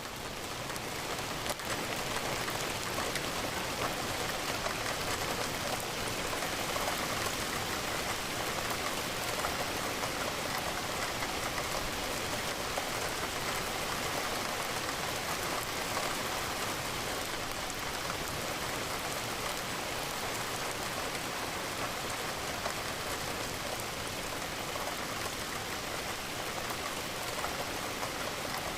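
Steady rain falling, an even patter of raindrops that holds level throughout.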